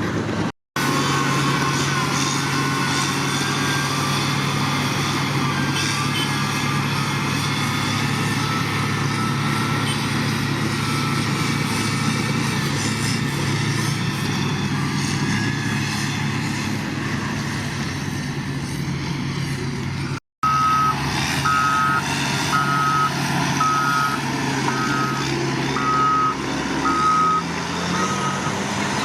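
Diesel engine of heavy earthmoving equipment running steadily. About 20 seconds in, the sound cuts out for a moment, and then a reversing alarm beeps in an even series, a little more than one beep a second, over the engine.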